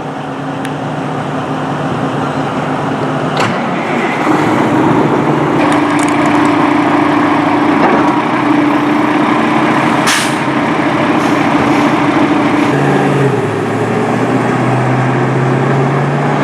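Large truck engine running steadily. Its tone drops about 13 seconds in, then rises slightly. A few sharp clicks occur over it.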